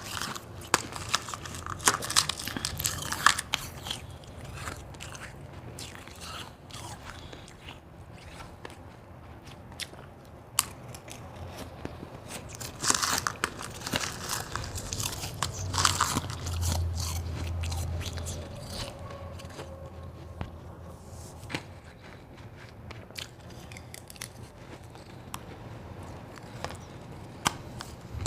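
Close-miked biting and chewing of crunchy white ice. Dense clusters of sharp crunches come near the start and again about halfway through, with softer, scattered crunching between and after.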